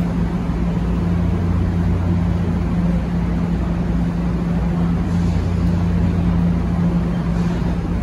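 Steady low drone of an idling NJ Transit push-pull train standing at the platform: an unchanging deep hum with a second tone an octave above it.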